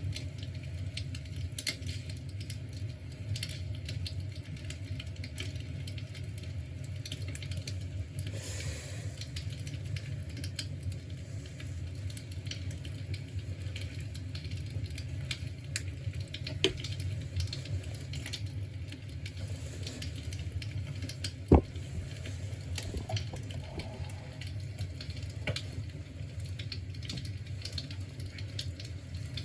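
Soft fireplace-style crackling: scattered small pops and ticks over a steady low rumble, with one sharper click a little over two-thirds of the way through.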